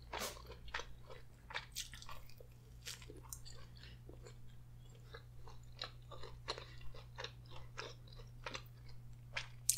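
A person chewing a mouthful of pizza and seasoned fries with ranch: a run of short, irregular mouth clicks and soft crunches, several a second, over a faint steady low hum.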